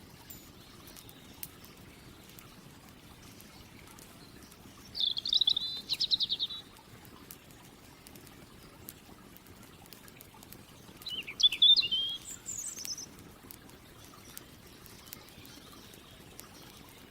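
A songbird singing two short, rapid warbling phrases, one about five seconds in and another about eleven seconds in, over the faint, scattered crackling of a campfire.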